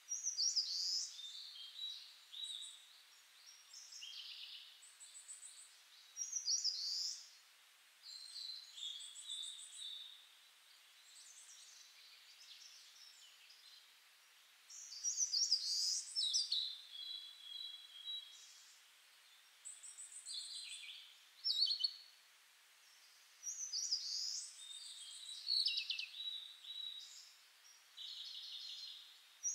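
Birdsong: several birds chirping and trilling in short, high-pitched phrases with brief pauses between them.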